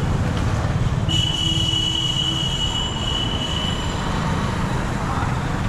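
A train rumbling along the track, with a high, steady wheel squeal from about a second in until nearly four seconds.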